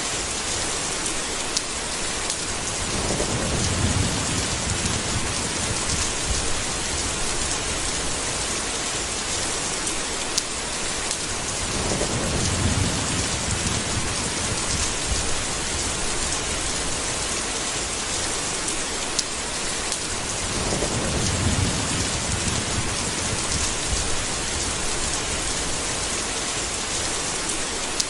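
Steady heavy rain with three low rolls of thunder: one a few seconds in, one near the middle and one about three quarters of the way through.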